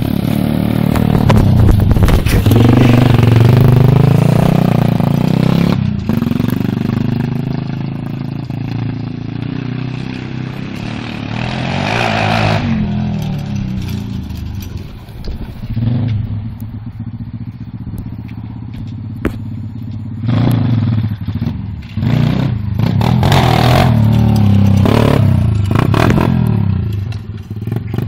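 Thumbster 125cc pit bike's single-cylinder four-stroke engine running and revving up and down repeatedly, with loud surges about 2, 12, 16, 20 and 23 seconds in and easing off between them.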